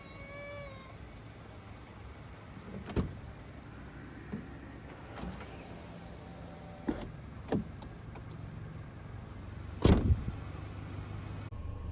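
A series of separate knocks and thumps, about five, with the loudest a double knock near the end.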